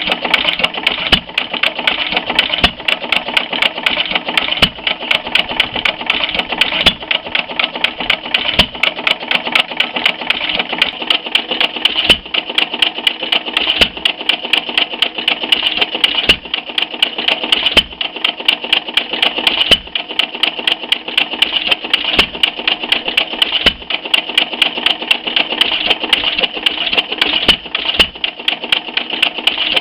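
Termaat & Monahan hit-and-miss stationary engine running: a fast, steady mechanical clatter with a heavier knock every couple of seconds.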